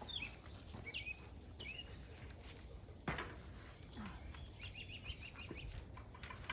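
Birds chirping: a few short call notes near the start and a quick run of repeated chirps about five seconds in, with a single sharp knock about three seconds in.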